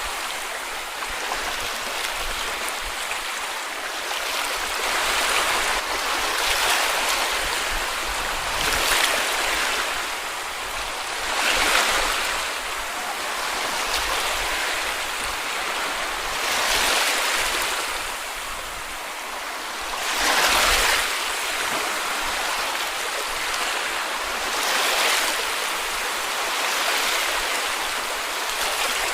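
Small sea waves washing onto a beach and draining back, a continuous hiss that swells with each wave every few seconds.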